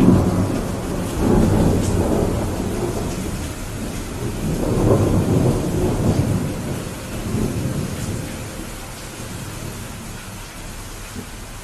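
Steady rain falling during a thunderstorm. A long rumble of thunder starts suddenly at the outset, swells again about five seconds in, and dies away toward the end, leaving only the rain's hiss.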